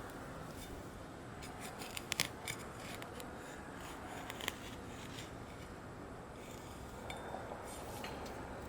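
Faint scraping of a digging tool in rocky soil full of lava rock, with scattered sharp clicks as it strikes stone, a cluster about two seconds in and another near four and a half seconds.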